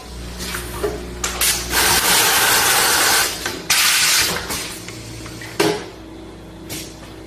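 Automatic vacuum tea packaging machine working through a cycle: a motor hum, sharp pneumatic clacks, and a loud rush of air lasting about two and a half seconds in the middle.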